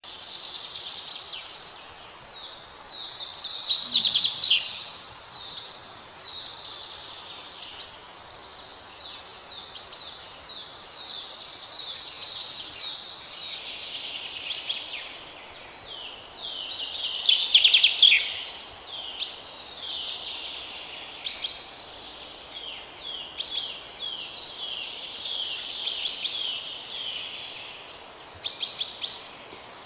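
Birds singing: repeated phrases of quick, high, downward-sliding chirps and trills, a new burst every two seconds or so, over a faint steady hiss.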